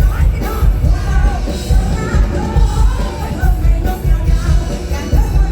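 Live mor lam band music over a heavy, steady bass beat, with a woman singing a melodic line.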